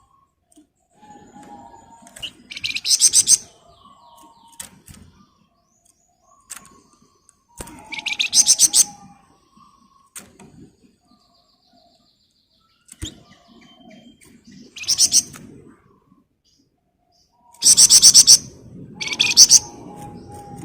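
A flamboyan songbird singing in loud, dense, rapid-fire trills ('ngebren'), five bursts of about half a second to a second each, separated by softer chirping notes.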